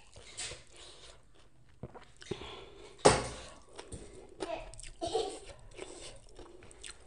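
A person chewing food with her mouth open, with irregular wet smacking and crunching sounds and one loud, sharp mouth sound about three seconds in.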